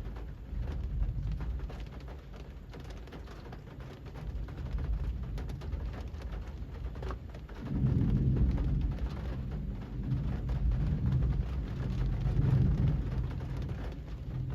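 Rain falling on a street: a steady hiss with many scattered drop taps. A deep low rumble comes in briefly about a second in and swells again about eight seconds in, staying through the end.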